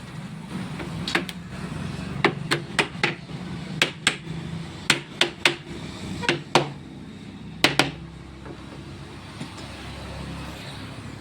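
A hammer striking wood in a dozen or so irregular blows, some in quick pairs, over a low steady hum; the blows stop about eight seconds in.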